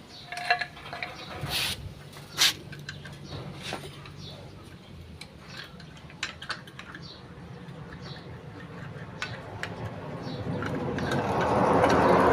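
Metal clinks and knocks of tools and motorcycle clutch parts being handled during reassembly, a few sharp ones in the first seconds. A rushing noise swells over the last two seconds and becomes the loudest sound.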